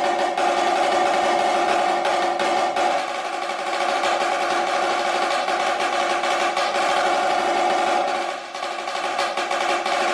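Snare drum played solo in a fast, sustained roll passage, the strokes so close they blend into one continuous sound. The loudness briefly drops about eight and a half seconds in, then returns.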